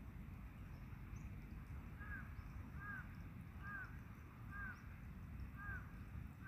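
A bird calls a short, arched, two-toned note over and over, about once a second, starting about two seconds in, over a steady low rushing noise.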